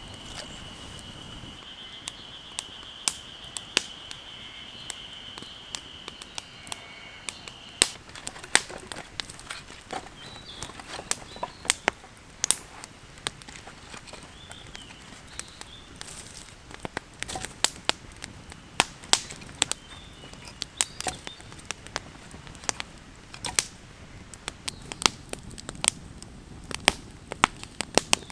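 Wood campfire crackling, with irregular sharp snaps and pops that come thicker after the first several seconds. A steady high-pitched note sounds over the first several seconds.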